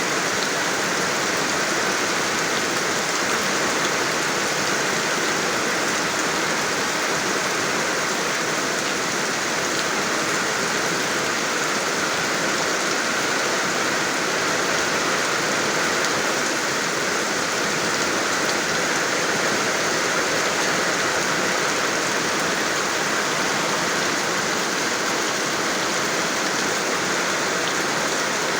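Steady rain falling, an even, unbroken hiss with no thunder or separate drops standing out.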